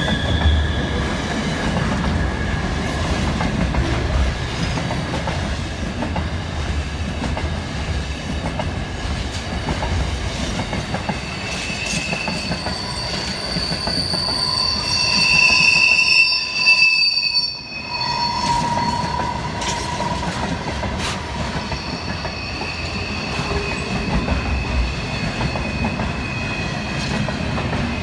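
Freight train wagons rolling past with a steady low rumble of wheels on rail, overlaid by high, shifting wheel squeal in several tones that grows loudest about halfway through.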